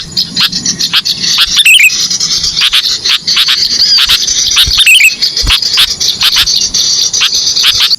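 Bird-lure recording of small birds calling: a dense, rapid chatter of high chirps, with one descending call recurring about every three seconds, as in a looped lure track.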